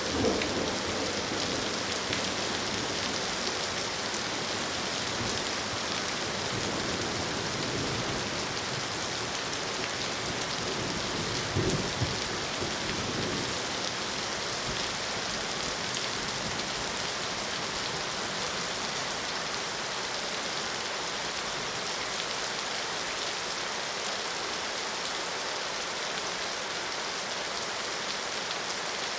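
Steady rain falling, an even hiss of drops on surfaces. A low rumble comes at the start and a brief louder low swell about twelve seconds in, like distant thunder.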